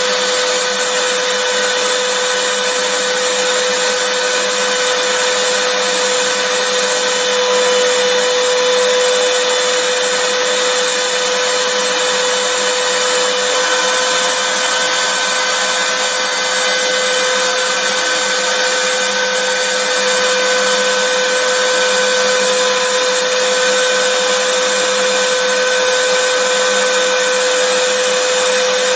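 Vacuum cleaner running continuously: an even rushing noise with a steady motor whine that does not change.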